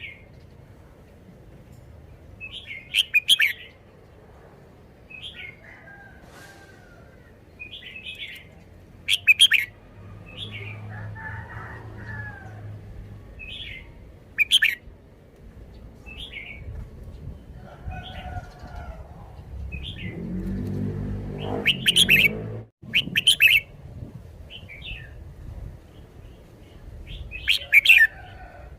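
Red-whiskered bulbul singing short, loud, chirpy phrases, repeated every one to three seconds. A low rumble builds beneath the song for a couple of seconds near the middle.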